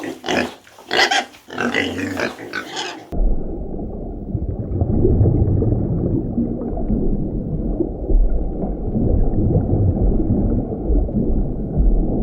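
Pigs oinking and squealing for about three seconds, then an abrupt switch to a dense, muffled low rumble that runs on steadily.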